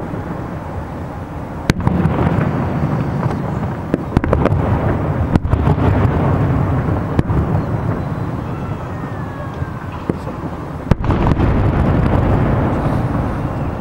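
Aerial fireworks shells bursting in a continuous barrage of booms and rumble, with several sharp cracks, the clearest about two seconds in and near eleven seconds, and a faint falling whistle near the middle.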